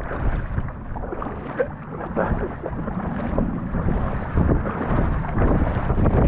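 Wind buffeting the microphone over open water: an uneven rushing noise with irregular gusts.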